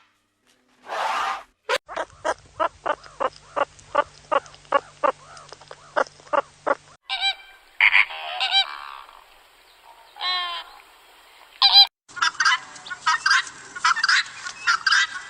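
Waterfowl calling: first a run of short, evenly spaced calls, about three a second for some five seconds, then a few scattered calls, and near the end a dense flock chorus of many overlapping calls.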